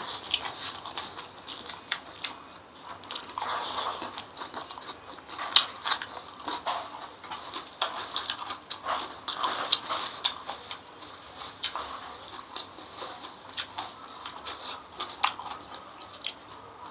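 Chewing a mouthful of Aceh-style fried noodles: wet mouth smacks and small clicks at an uneven pace.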